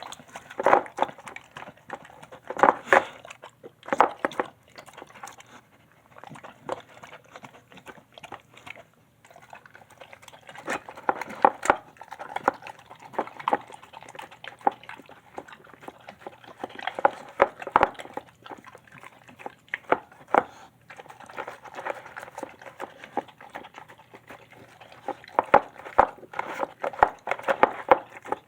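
A dog eating a wet meal from a bowl: irregular bouts of chewing, smacking and lapping, with sharp clicks and short pauses between mouthfuls.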